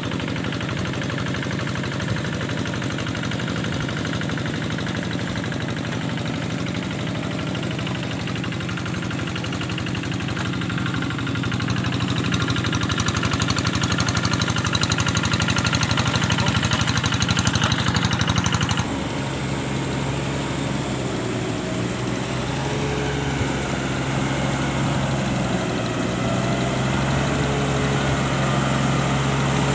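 A small engine running steadily; the sound changes abruptly about two-thirds of the way through to a lower, steady engine note whose pitch wavers slightly.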